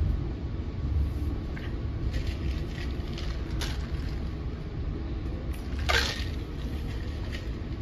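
Cabin sound inside a moving NJ Transit Multilevel passenger coach: a steady low rumble of the train running on the rails, with scattered light clicks and rattles and one short, sharp squeal about six seconds in.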